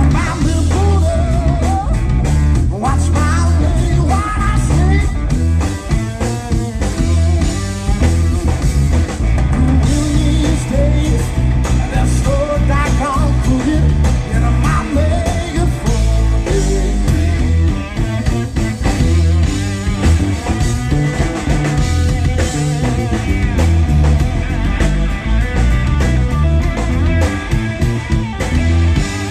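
Live blues-rock band playing: electric guitar lead over bass guitar and drum kit.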